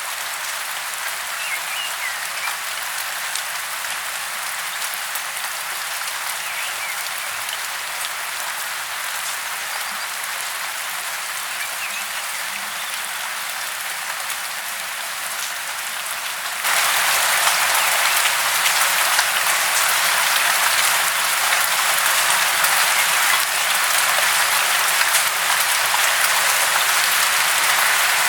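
Steady hiss of falling water, even and without a beat; it jumps to a louder, brighter level about two-thirds of the way through.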